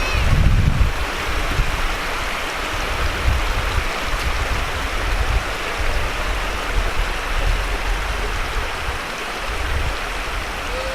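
A stream running over rocks: a steady rush of water, with a brief low rumble about half a second in.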